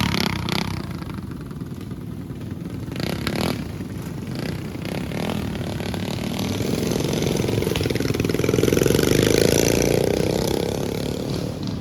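Small mini bike engines racing past, the engine note growing louder to a peak about nine seconds in and then fading away.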